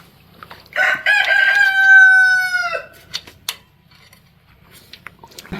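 A rooster crowing once: a single loud crow about two seconds long, starting about a second in and dropping in pitch as it ends.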